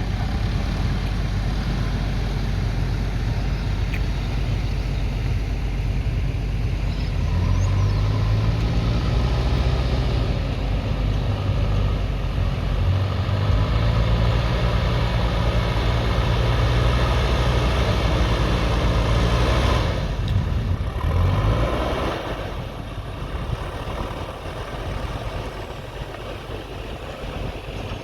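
JCB 3DX backhoe loader's diesel engine working, revving up about a third of the way in and holding at higher speed under load, then easing back to a lower, quieter speed near the end.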